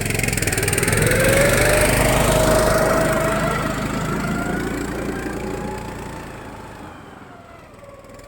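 Small single-cylinder engine of a motorized snow tow (motobuksirovshchik) speeding up with rising pitch, then gradually fading as it moves off.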